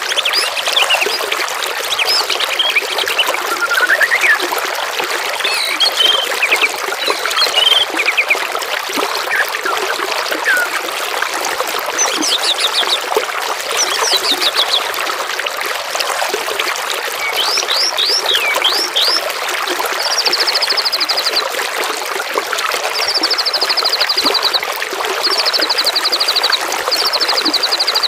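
Steady trickling, flowing water under assorted songbirds singing, with mixed chirps and quick sweeping whistles. In the last third, one bird repeats a rapid buzzy trill four times, each phrase about a second and a half long.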